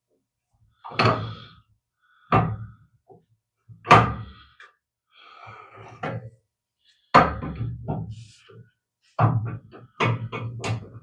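Metal hand tools knocking and clanking against metal parts: a series of sharp knocks, some ringing briefly, coming faster near the end, with a short stretch of handling rustle in the middle.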